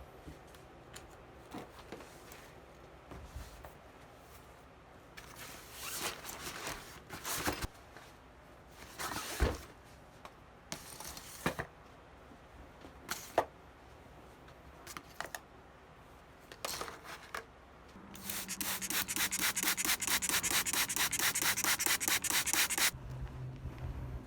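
Scattered rustling and handling noises, then a fast, even back-and-forth rubbing, about eight strokes a second, that starts about eighteen seconds in and runs for about five seconds.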